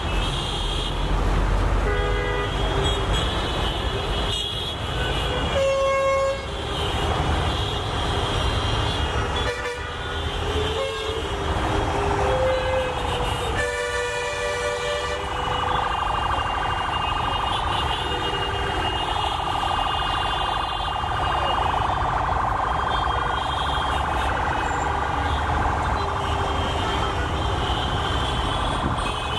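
Diesel-hauled express train running, with a low rumble and the locomotive's horn sounding several times in short blasts. From about halfway on, a steady higher-pitched noise from the passing train joins the rumble.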